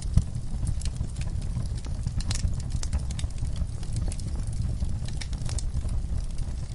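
Wood fire crackling in a fireplace: irregular sharp pops and snaps from burning logs over a steady low rumble of the flames, with a louder pop near the start.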